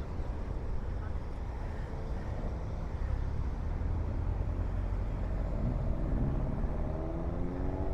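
Car engines running with a steady low rumble, then one engine rising in pitch over the last couple of seconds as a car accelerates away.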